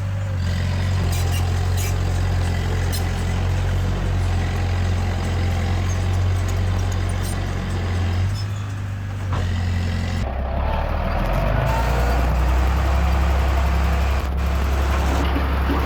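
Diesel engine of heavy earthmoving machinery running steadily, with light clicking early on. About ten seconds in, the engine note drops lower and grows rougher.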